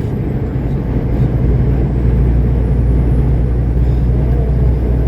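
Semi-truck engine and road noise heard from inside the cab while driving: a steady low drone.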